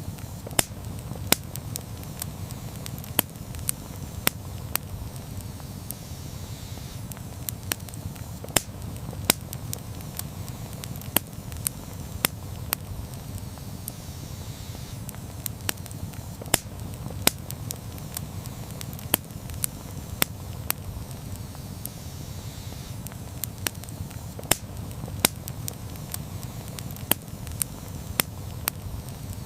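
Campfire burning with a steady low rumble of flames and frequent sharp crackles and pops of burning wood at irregular intervals.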